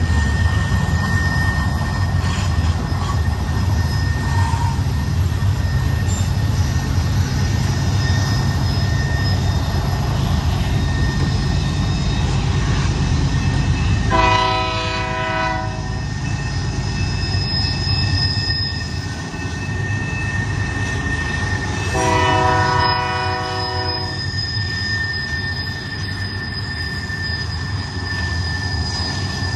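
Double-stack container freight train rolling past close by: a steady low rumble of wheels on rail with a thin, steady high wheel squeal over it. A locomotive horn sounds twice, each blast about two seconds long, about halfway through and again some eight seconds later. The rumble eases a little after the first blast.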